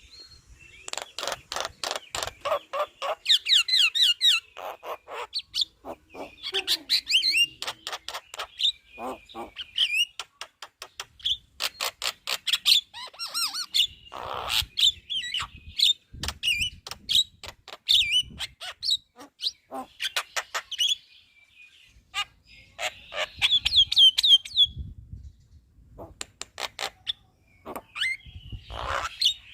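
Javan myna (jalak kebo) singing its loud chattering song: fast runs of harsh clicks and rattles mixed with whistled notes, in bursts with short pauses between.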